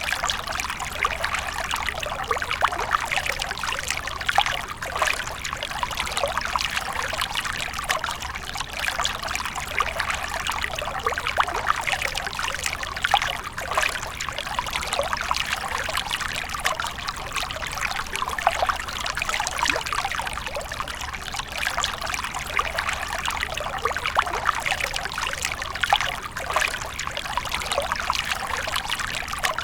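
Water fountain splashing and trickling steadily, a continuous pouring of falling water.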